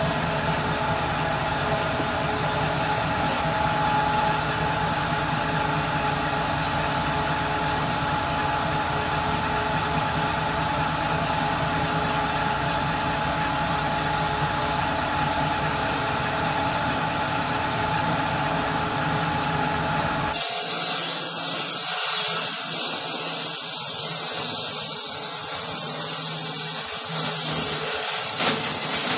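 Power saw running steadily with a constant hum. About two-thirds of the way through it switches abruptly to a louder, harsh, high hiss of the blade cutting wood.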